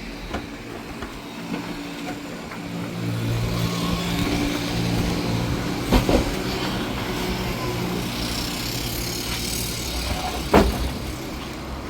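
A truck engine running steadily, growing louder and fuller about three seconds in. Two sharp knocks cut through it, around the middle and again near the end.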